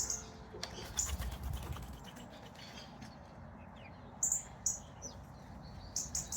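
Small wild garden birds chirping: short high chirps come several times, with a burst of clicks and a low rumble about a second in.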